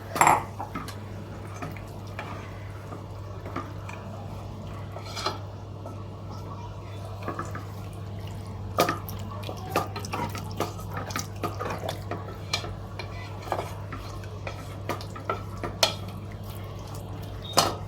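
Thin coconut milk going into a pan of vegetables and being stirred in with a spoon. The spoon clinks and scrapes against the pan at irregular intervals, over a steady low hum.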